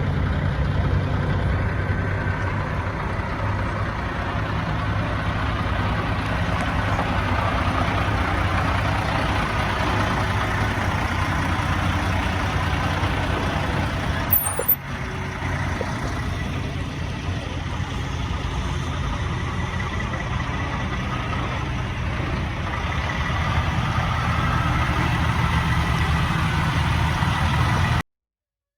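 Heavy truck's diesel engine running steadily, with one sharp click about halfway through. The sound cuts off just before the end.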